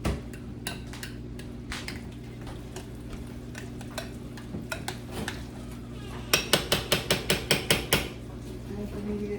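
A spoon stirring beans in a dish, with scattered scrapes and clinks, then a quick run of about a dozen sharp taps of the spoon against the dish, about seven a second, near the end. A steady low hum runs underneath.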